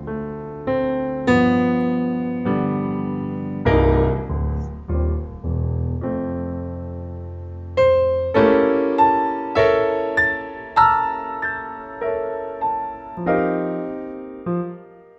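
Slow solo piano music, single notes and chords struck one after another and left to ring and fade.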